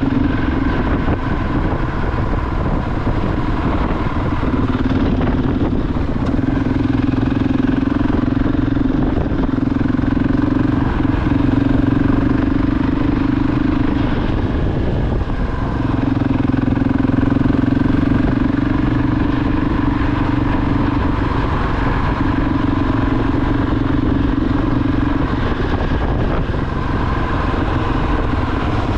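KTM 690 Enduro R's single-cylinder engine running at a steady road speed over a continuous rushing noise. Its tone eases off briefly twice, once early and again about halfway through, then steadies.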